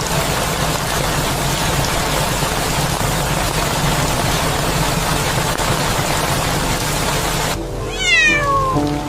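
A loud, steady hiss of noise that cuts off suddenly near the end. It is followed by one drawn-out kitten meow that falls in pitch, with soft background music underneath.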